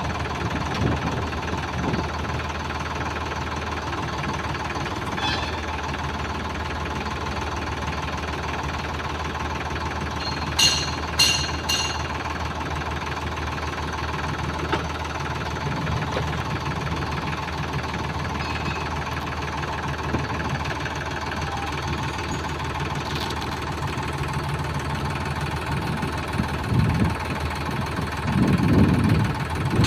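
Tractor diesel engine running steadily, with three sharp metallic clanks about ten seconds in and a few heavier knocks near the end.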